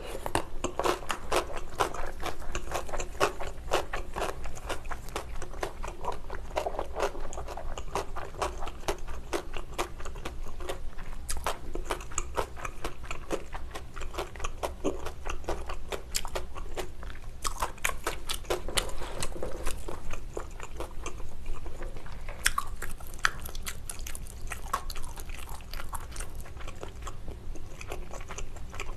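Close-miked chewing of pickled yellow radish (danmuji), a steady run of crisp, wet crunches.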